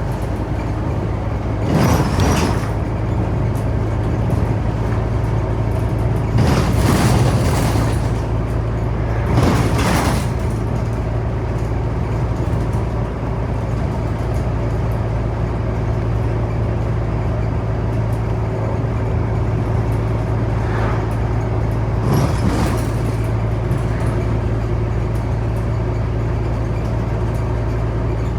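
Scania Omnicity city bus running, heard from inside: a steady low engine drone, with several brief rushes of noise about 2, 7, 10 and 22 seconds in.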